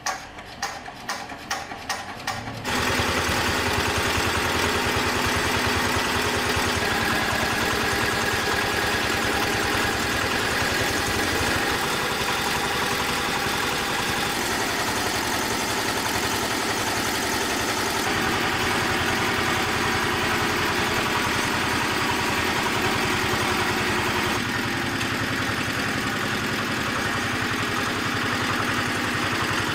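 Repaired diesel engine being cranked, with a quick run of chugs about two or three a second, then catching about two and a half seconds in and running steadily.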